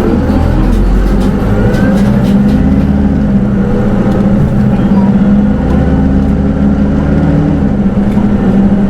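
Hino Rainbow II SDG-KR290J1 city bus running under way with its automatic transmission, heard from inside the cabin: a steady diesel engine drone whose note shifts a few times, with a rising whine near the start and a few light rattles.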